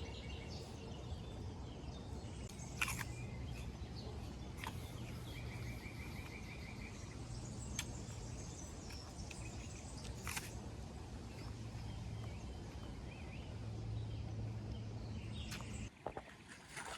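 Outdoor ambience: a steady low rumble with birds chirping and a short trill about six seconds in, and four sharp clicks or snaps spread through it.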